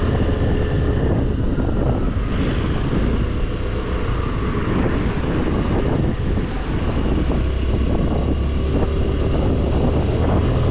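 Scooter riding on a wet road: steady wind rush over the rider's microphone with a low rumble from the scooter's engine and tyres.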